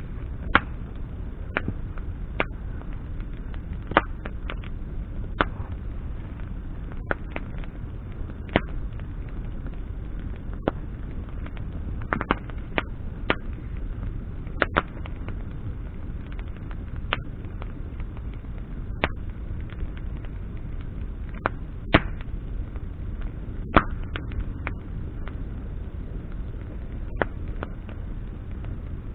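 Wood campfire burning: irregular sharp crackles and pops from the burning branches over a steady low rumble.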